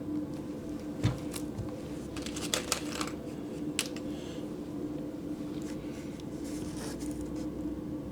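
Scattered light clicks and taps of hand work on a workbench as parts of a model aircraft are handled and pinned, the sharpest about a second in and a small cluster a couple of seconds later, over a steady low hum.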